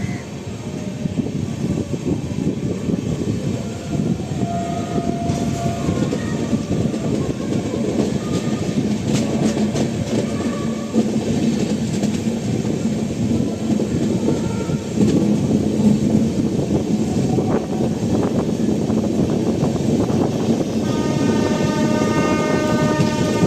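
Passenger train running over the rails with a steady rumble and wheel clatter, and short high-pitched tones here and there. About 21 seconds in, a train horn starts sounding and holds.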